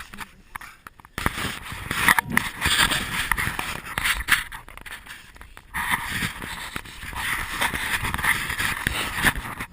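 Dense scraping and rustling noise with many small clicks, starting suddenly about a second in, with a brief break a little past the middle.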